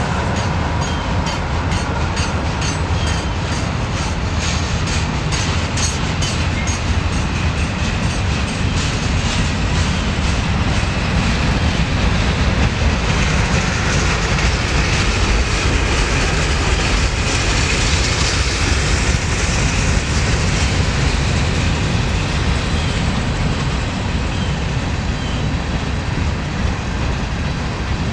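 Railroad cars of a freight train rolling past, a steady rumble of wheels on rail, with rhythmic clickety-clack over the rail joints for the first several seconds.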